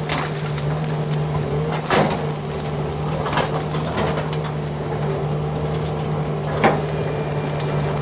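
Tractor engine running steadily while brush forks push and stack downed almond branches, the wood cracking and snapping several times.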